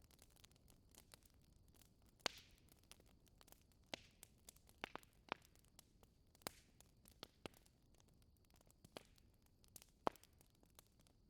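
Wood fire crackling: a steady scatter of small sharp pops and snaps, with several louder pops, a few of them trailing a brief hiss.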